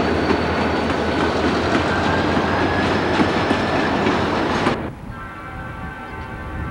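Freight train of autorack cars passing close by at speed: a loud, steady rumble with wheels clicking over rail joints and a faint high steady squeal. About two-thirds of the way through the sound cuts off abruptly and gives way to quieter, steady held tones.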